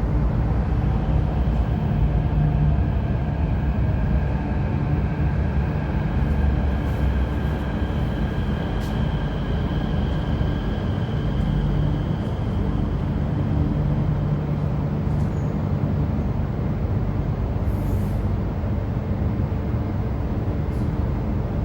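MTR Q-Train metro set A769/A770 running along the line with a steady heavy rumble. A faint high whine is held through the first half and fades out past the middle.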